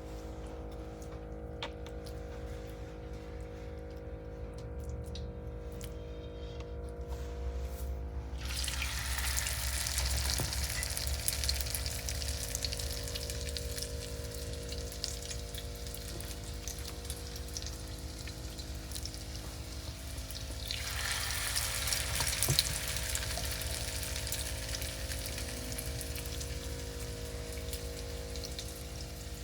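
Potato latkes frying in hot oil, a sizzle full of fine crackles that starts about a third of the way in and swells louder again about two-thirds of the way through, over a steady low hum.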